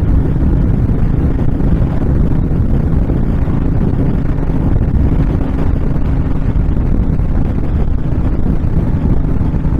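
Wind rushing over the microphone while riding a Honda VTX1300 cruiser at road speed, with the bike's V-twin engine droning steadily underneath.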